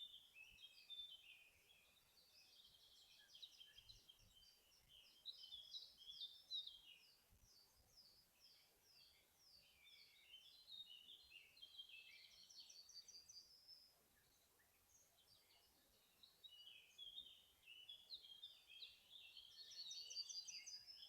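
Quiet songbird chorus: quick, high twittering phrases and trills, briefly quieter about two-thirds of the way through.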